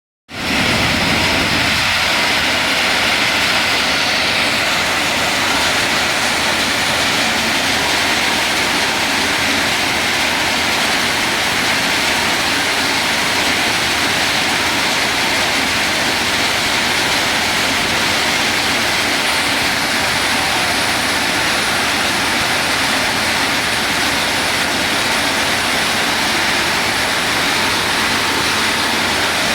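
Sand washing machine running: a loud, steady rushing noise of machinery and water that holds level throughout, with no rhythm or distinct knocks.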